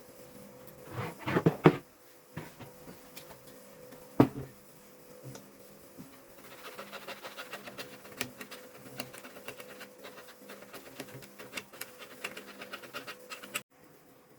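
Hand work on a bass speaker driver: scratching and scraping with many small clicks. There is a louder rustle about a second in and a sharp knock about four seconds in, and the sound cuts off abruptly near the end.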